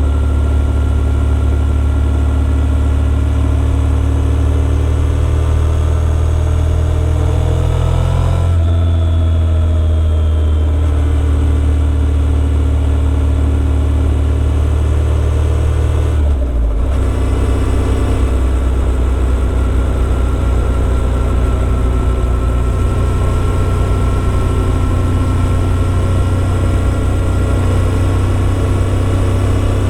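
Motorcycle engine running steadily while riding, recorded on the bike. Its revs climb for a few seconds and then drop at a gear change about eight seconds in, and the note breaks briefly again about halfway through before settling into a steady cruise.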